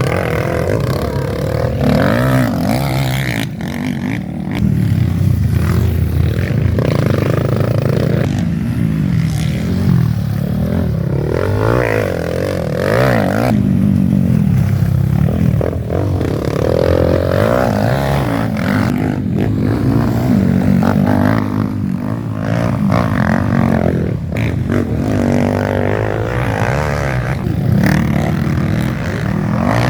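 Motocross bikes racing, engines revving hard and easing off over and over, the pitch rising and falling as they work through the gears and pass by.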